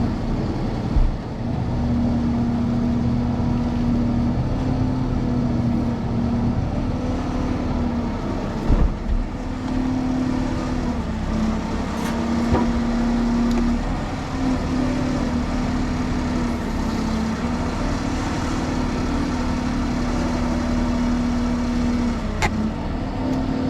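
Tire service truck's engine running with the manipulator's hydraulics working: a steady whine cuts out and returns several times. A few sharp knocks and clanks.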